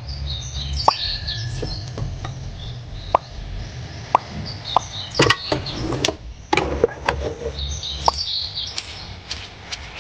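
Irregular drops of rain plopping and tapping, over a steady low rumble of rain, with small birds chirping in short bursts now and then.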